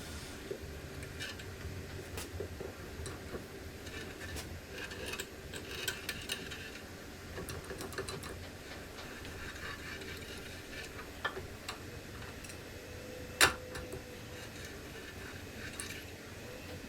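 Scattered light clicks and taps of metal tools and parts being handled, with one sharp metallic clink about two-thirds of the way through that rings briefly.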